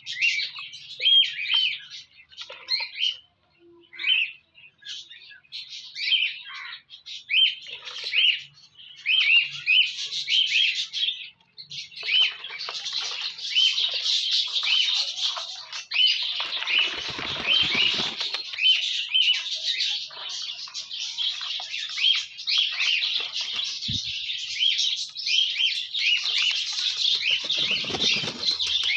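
Green parrots chirping over and over in short sharp calls. From about twelve seconds in, a steady splashing and wing-fluttering joins the calls as the birds bathe, with heavier splashes twice.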